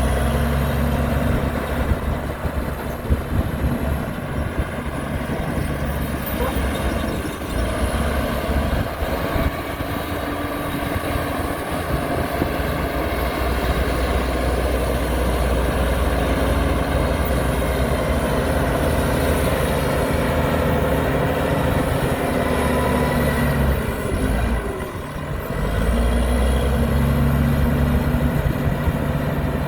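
Heavy diesel construction machinery running under load, its engine note shifting up and down. Near the end it drops off briefly and then picks back up. Above it there is a faint high whine that glides up and down.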